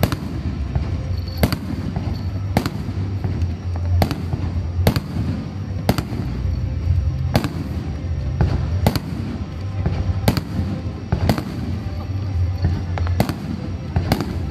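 Fireworks display: aerial shells bursting in a continuous barrage, sharp bangs about once a second over a steady low rumble.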